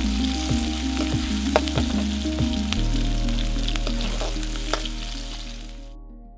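Vegetables and noodles sizzling as they are stir-fried in a metal wok, with the utensil scraping and clicking against the pan. Background music with a low bass line plays underneath, and the sizzle fades out near the end.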